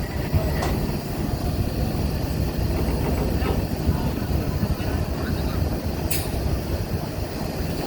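Heavy vehicle and ship engines running, a steady low rumble, with a brief sharp hiss about six seconds in.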